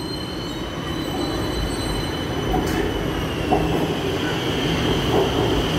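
A BTS Skytrain electric train pulling into an elevated station platform. Its running noise grows louder as it approaches, over a steady high whine that drops slightly in pitch as it slows.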